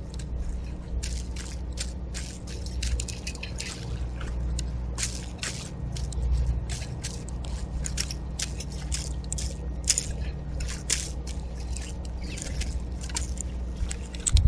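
Rapid, irregular crisp clicks and crunches of seeds being cracked and eaten at a backyard feeder close to the microphone, over a low steady rumble.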